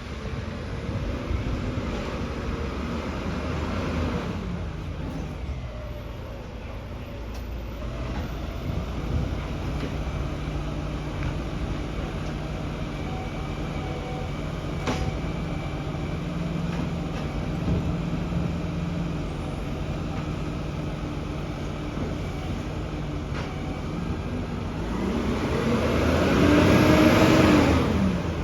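Garbage truck engine running steadily, its revs rising and falling over the first few seconds and again near the end, where it is loudest.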